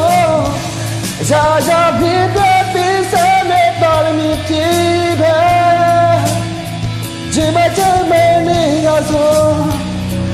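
A voice singing a Burmese-language song over a karaoke backing track, with long held, bending notes.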